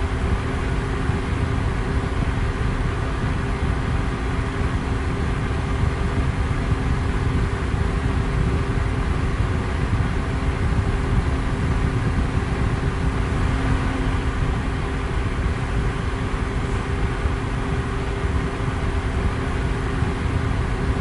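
Fan running at a steady speed: an even, unbroken noise of moving air, heaviest in the low end, with a faint steady hum from the motor.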